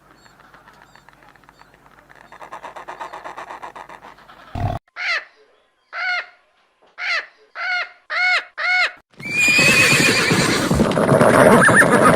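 A run of animal calls: first a faint, fast pulsing, then about seven short calls that each rise and fall in pitch, then a loud, rough, drawn-out call from about nine seconds in.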